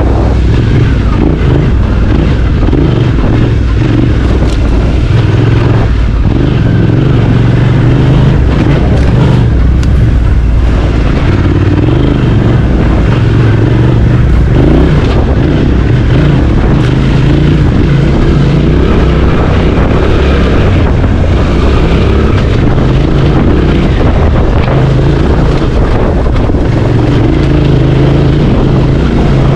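Suzuki V-Strom 800DE's parallel-twin engine running under constantly changing throttle, its pitch stepping up and down as the rider rolls on and off.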